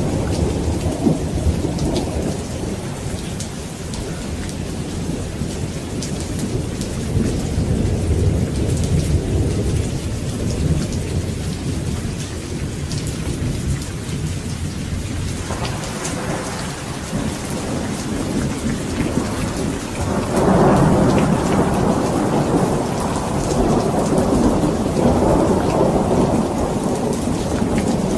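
Steady heavy rain with rolling thunder; a louder rumble of thunder builds about twenty seconds in and rolls on.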